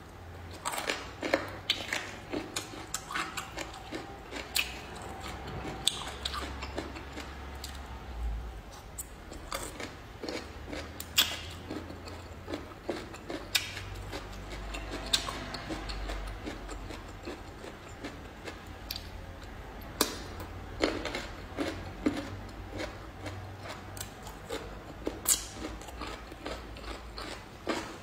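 Pickled bamboo shoots being bitten and chewed close to the microphone: a run of sharp, irregular crunches.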